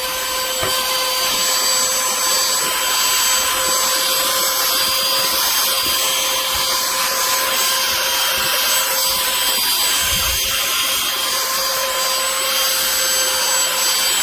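Bissell AeroSlim lithium-ion cordless handheld vacuum running steadily as it sucks up crumbs: a high, even motor whine over rushing air.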